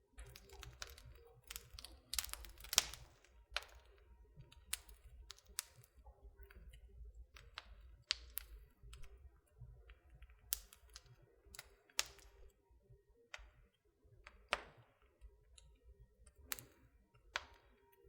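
Wood fire crackling in a fireplace: irregular sharp snaps and pops, a few of them louder, about three seconds in, near the middle and near the end.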